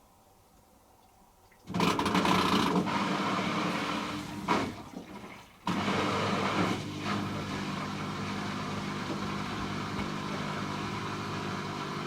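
Hoover H-Wash 300 Plus washing machine running with water rushing, starting suddenly after a near-silent pause. It fades out briefly about four seconds in, then starts again with a steady hum.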